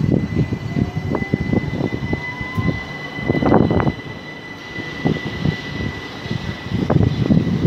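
Southern Class 377 Electrostar electric multiple unit moving past, its wheels clattering and knocking over rail joints and pointwork, with a faint traction-motor whine rising in pitch in the first few seconds.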